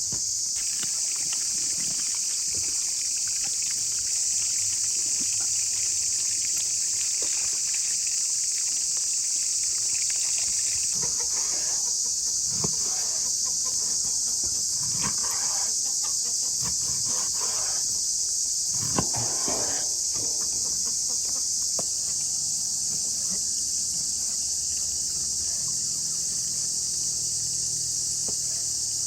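Steady, high-pitched buzzing of an insect chorus, with a few short knocks and rustles of handling in the middle.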